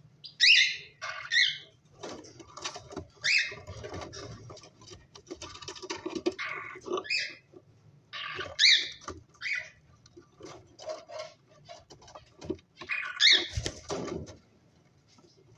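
Pet cockatiels giving short, high chirping calls, about seven scattered through the stretch, over a continual patter of small clicks and scratching.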